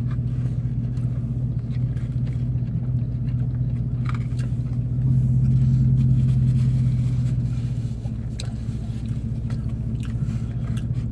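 A person biting into and chewing a chicken sandwich, faint mouth clicks and smacks, over the steady low hum of an idling vehicle. The hum swells for a couple of seconds about five seconds in.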